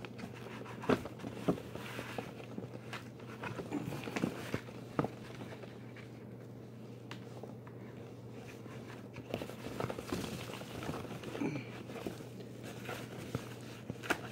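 Irregular knocks, clicks and rustling from handling a vacuum cleaner's dust bin and the spilled dirt, over a low steady hum.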